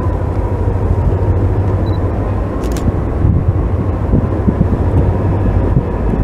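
CSX diesel freight train running past at close range: a loud, steady low rumble with irregular clanks and rattles, and a thin steady whine over it.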